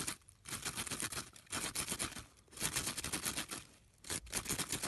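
An animal digging in snow: bursts of rapid scratching and crunching, each about a second long, with short pauses between them.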